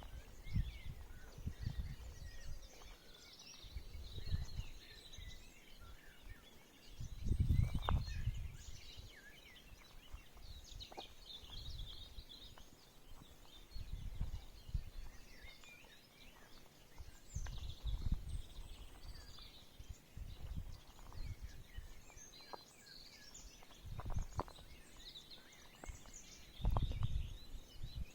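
Several small birds chirping and twittering in a forest, short overlapping calls throughout. Low rumbles come and go, the loudest about 8 seconds in and near the end.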